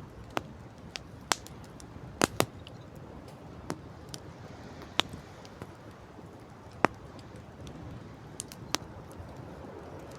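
Wood campfire crackling: about a dozen sharp, irregular pops and snaps, the loudest around two and seven seconds in, over a steady hiss of wind and sea.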